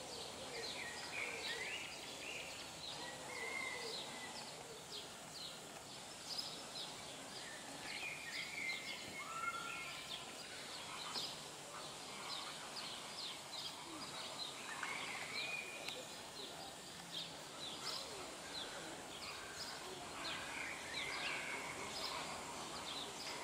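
Several songbirds chirping and singing, many short high chirps with a few brief whistled notes, over steady outdoor background noise.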